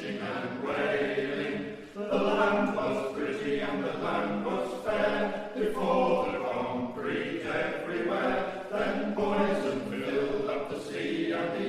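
Male voice choir singing a slow shanty in harmony, unaccompanied.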